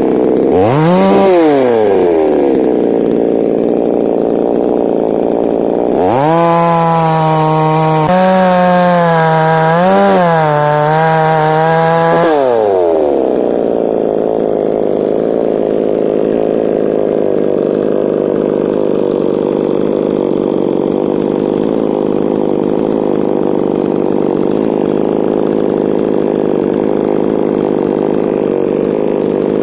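Petrol chainsaw engine idling, blipped up and back down about a second in, then held at high revs for about six seconds with the pitch wavering, before dropping back to a steady idle.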